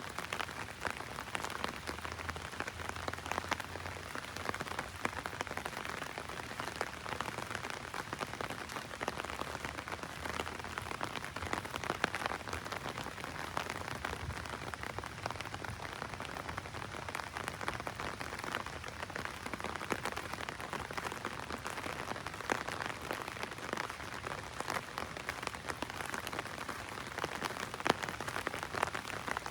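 Heavy rain drumming on an umbrella: a dense, steady patter of drops, with a few louder single drops now and then.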